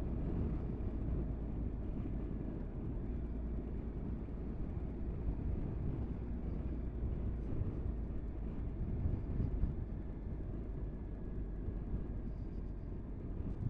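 Motorcycle riding along at a steady pace, its engine running under a constant low rush of wind over the camera microphone.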